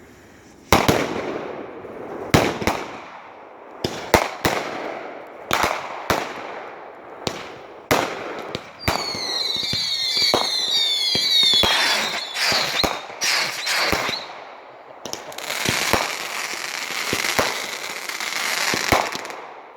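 Consumer fireworks going off: a string of sharp bangs from bursting shells, a cluster of short whistles about nine seconds in lasting a few seconds, and a dense run of rapid bursts near the end.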